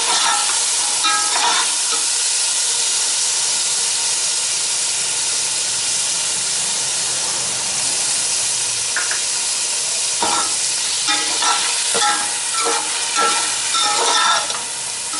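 Mutton and freshly added yogurt frying in hot oil in an aluminium pot, a steady sizzle as the yogurt's water cooks off. From about ten seconds in, a metal slotted spoon scrapes and clinks against the pot as it is stirred.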